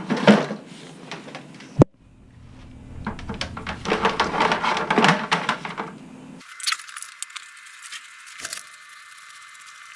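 Metal clinking and rattling from objects being handled, with a sharp click about two seconds in and a busier stretch of clatter in the middle, then only scattered light ticks.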